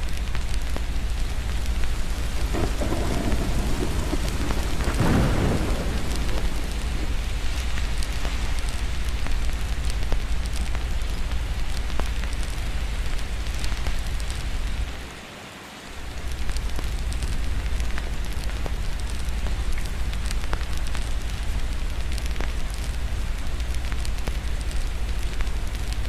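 Steady rain with a low rumble of distant thunder swelling about three to six seconds in, over the light crackle of a fireplace. The level briefly dips about fifteen seconds in.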